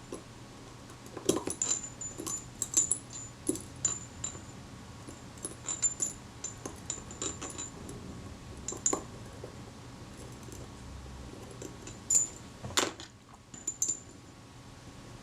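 Irregular small metallic clicks and tinkles of tweezers and a tiny brass gear train, the retard gear train of a Pronto camera shutter, being handled in a jar of naphtha, with a sharper click about three-quarters of the way through.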